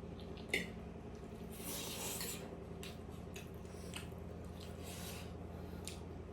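Close-up eating sounds: chewing and squishing of food, with a sharp click of cutlery or a plate about half a second in and a brief rubbing noise around two seconds, over a steady low hum.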